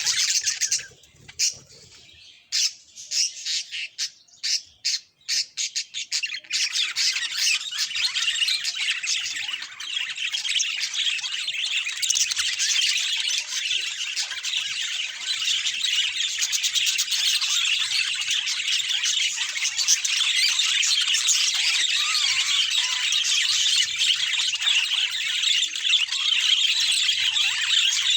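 Budgerigars chattering and chirping: a dense, fast warble. It breaks off about a second in, gives way to separate short chirps for a few seconds, then runs on without a break.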